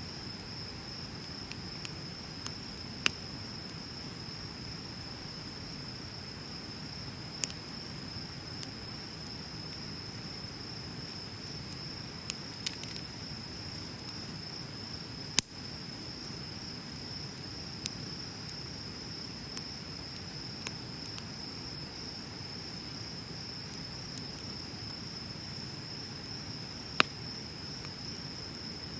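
Wood bonfire burning with a soft crackle and a few sharp pops, the loudest about halfway through and near the end, over a steady high-pitched insect trill.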